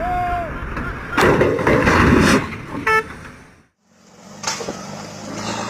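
Road vehicle noise: a loud rush of noise, then a brief horn toot, a sudden break, and a steady low engine hum.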